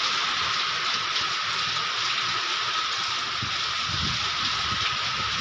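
Heavy rain falling in a steady downpour, with low, gusty rumbles of wind on the microphone from about three and a half seconds in.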